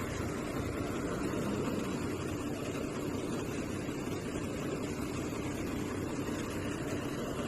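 MSRTC sleeper/seater bus running on the road, heard from inside the cabin as a steady drone of engine and road noise.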